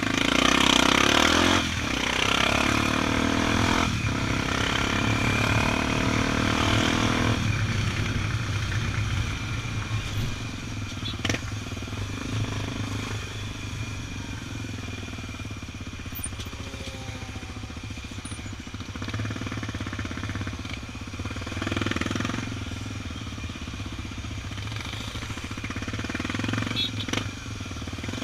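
Honda XR 250 Tornado's single-cylinder four-stroke engine running steadily under way, with a rush of wind and road noise that is louder for the first seven seconds or so, then eases.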